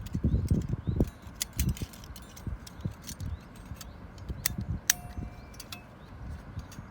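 Small metal camping gear being handled: a burst of soft knocks in the first second, then scattered clicks, with one sharp metal clink that rings briefly about five seconds in.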